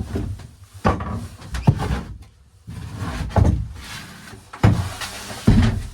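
Irregular thuds, knocks and scraping as the boat's top bunk is pried and broken out by hand, about five heavy blows or cracks with rubbing and rattling in between.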